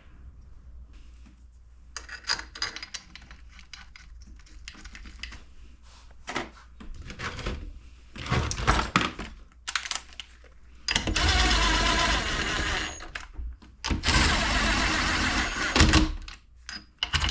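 Metal tools and engine parts clicking and knocking during engine assembly, followed by two loud, harsh, sustained bursts of about two seconds each, a little past the middle and again soon after.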